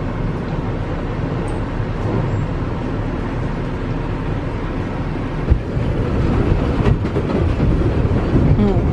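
New York City subway train running, a steady low rumble of wheels on track, with one sharp knock about five and a half seconds in and the rumble growing a little louder after it.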